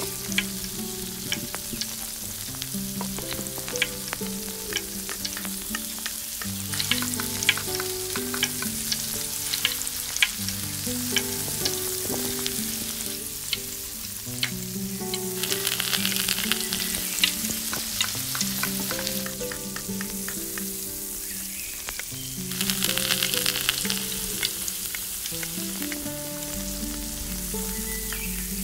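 Food sizzling in hot oil in a miniature pan, with light clicks of stirring. The sizzle swells louder twice, about halfway through and again some seconds later. Instrumental background music with held notes plays throughout.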